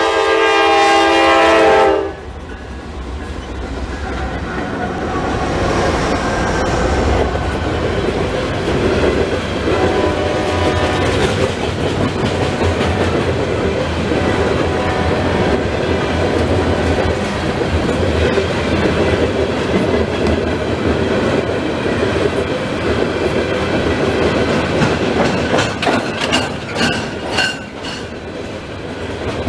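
Norfolk Southern diesel locomotive horn blasting for about two seconds, cutting off abruptly, then the steady rumble and clickety-clack of a freight train's loaded steel coil cars rolling past at speed, with sharper clicks near the end.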